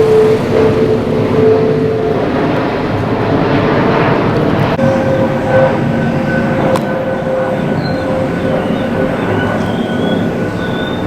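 Jet aircraft engines on final approach, passing low overhead: a loud, steady rush with a steady whine that steps up in pitch about five seconds in.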